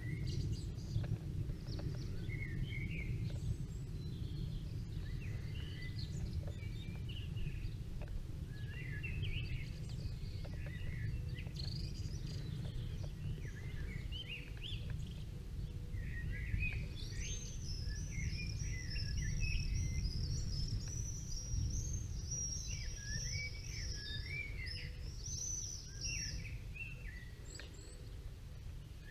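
Several songbirds chirping and warbling, with one high trill held for several seconds in the second half, over a steady low background rumble.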